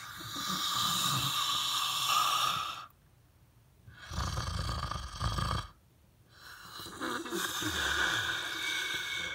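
A Megalania, a giant monitor lizard, making raspy hissing, breathy noises in three bouts: a long hiss lasting about three seconds, a shorter, deeper rumbling growl about four seconds in, then another long hiss.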